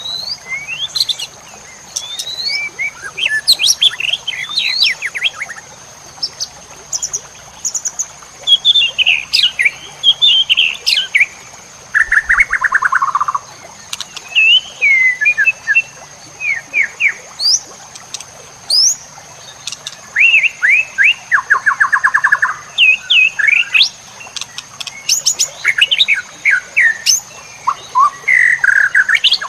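White-rumped shama (murai batu) singing: loud, varied phrases of rising whistles and quick chatters separated by short pauses, with a few rapid, buzzy trills. A faint steady high whine runs underneath.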